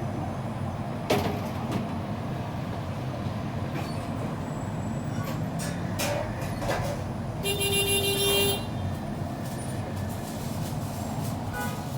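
Steady rumble of street traffic, with a vehicle horn sounding once for about a second midway through and a sharp knock near the start.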